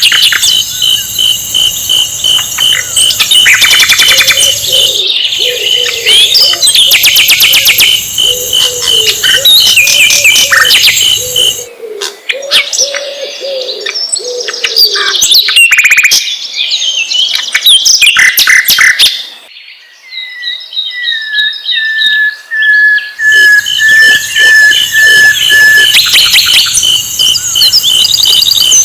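Sikatan londo flycatcher song: busy high chirps and trills over a steady, rapid high-pitched pulsing. A low warbling run of notes sounds through the first half. After a brief dip about two-thirds through, a string of falling whistled notes follows.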